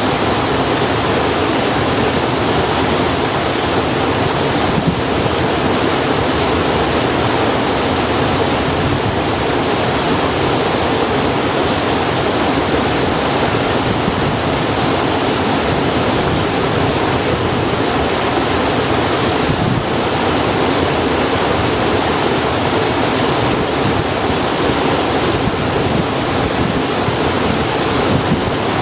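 Steady, loud rushing of running water, even throughout, with a faint pop about five seconds in and another around twenty seconds in.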